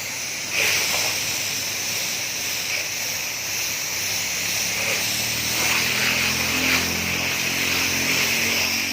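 Steady hiss of a high-pressure washer spraying water at a car wash. About halfway in, a low engine hum comes up underneath it.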